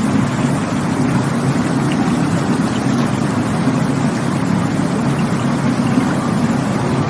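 Rushing water flowing steadily, a continuous even noise that is strongest low down.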